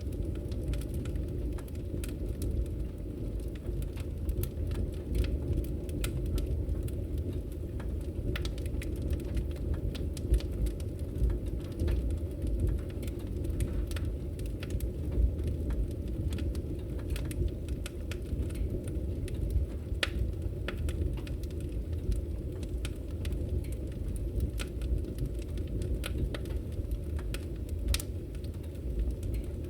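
Wood fire crackling in a fireplace: a steady low rumble of burning logs with frequent irregular pops and snaps.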